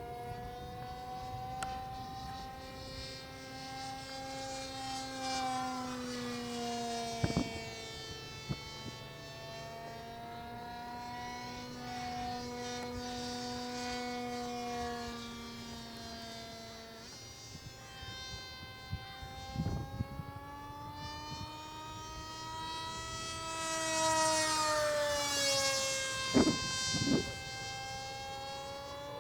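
Electric motor and propeller of an H-King RADJet 800 RC plane in flight: a steady whine whose pitch slides up and down as the plane passes and turns, loudest on a close pass near the end. A few brief knocks are heard.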